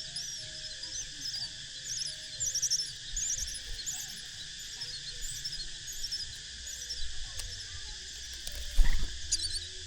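Nestling birds chirping: many short, high, wavering chirps in quick runs over a steady high hum. A single loud thump comes about nine seconds in.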